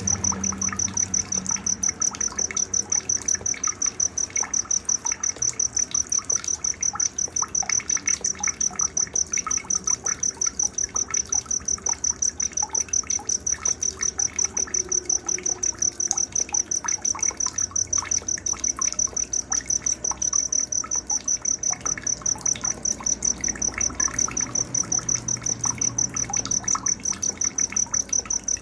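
A cricket chirping without a break in rapid, even pulses of a high tone, with birds calling and chirping more quietly underneath: a night-time nature ambience.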